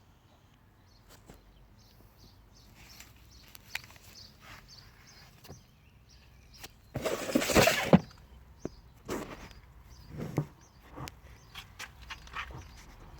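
Scattered clicks and knocks of things being handled, with one louder scraping or rustling burst lasting about a second midway.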